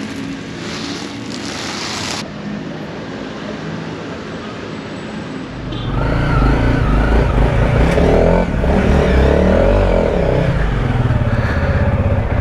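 Motorcycle engine running, getting much louder about six seconds in and revving, its pitch rising and falling.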